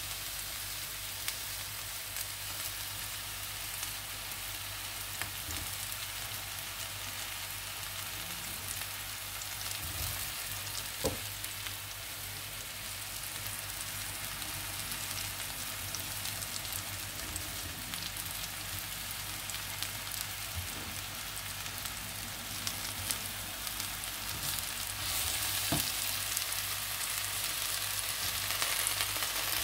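Sliced button mushrooms and garlic frying in a stainless steel pan with a steady sizzle, stirred with a wooden spoon that knocks against the pan now and then. The sizzle grows a little louder near the end.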